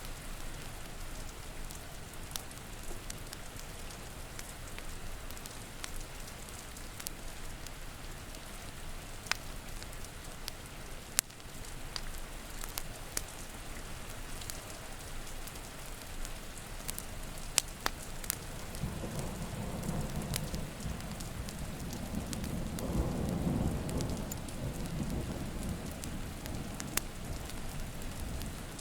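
Steady rain with scattered sharp crackles from a wood fire. About two-thirds of the way in, a low rolling rumble of thunder builds, peaks, and fades before the end.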